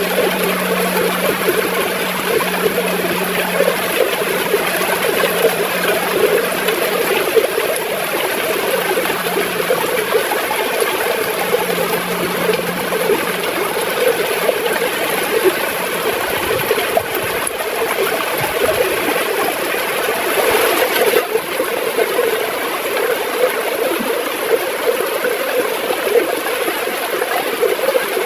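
River water flowing steadily with a continuous gurgle.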